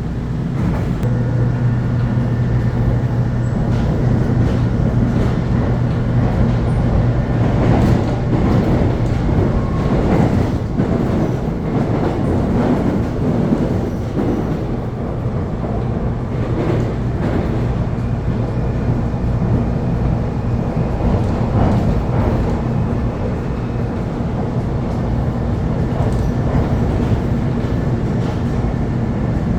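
Electric commuter train running along the track, a steady rumbling hum with a few faint whining tones and scattered clicks from the wheels and rails.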